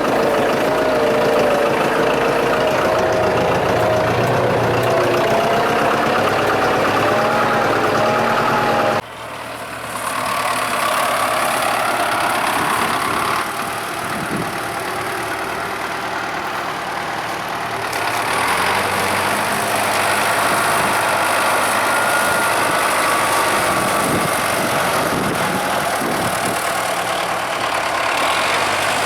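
Agrolux-4.80 tractor running under way, heard from the cab, with a whine that rises steadily in pitch as it picks up speed. About nine seconds in the level drops suddenly, and the engine then runs on steadily.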